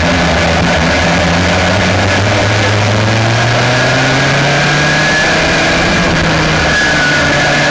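Aixro rotary kart engine running, its pitch climbing slowly over the first few seconds and then holding steady.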